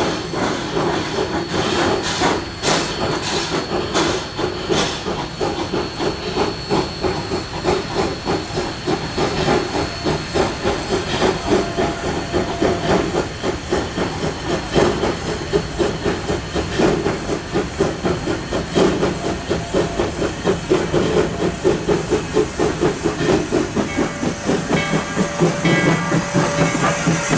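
Narrow-gauge steam locomotive working, with steady steam hissing over a fast pulsing train sound and a thin high hiss tone in the first half.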